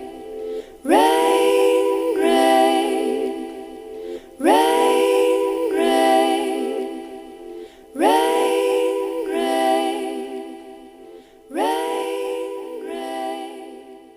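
Wordless layered voices singing held chords in four repeated phrases, each opening with an upward scoop in pitch; the last phrase fades out near the end.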